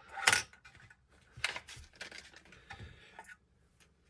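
Clicks and taps of small RC shock parts being handled: a sharp click about a quarter second in, another about a second and a half in, with light rattling and scraping between.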